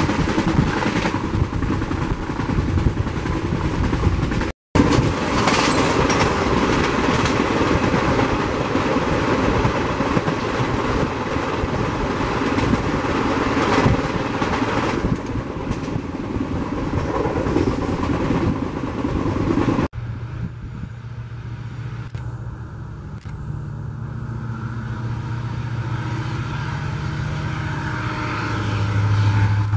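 Loud rushing rumble and clatter of an express train passing close by at speed, heard from a moving train. About two-thirds through, the sound cuts to a quieter steady running noise with a low hum, which swells near the end.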